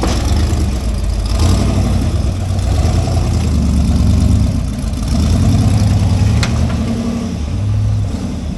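Off-road rig's engine running at low revs under load while rock crawling, rising and falling with the throttle. There is one sharp knock about six and a half seconds in.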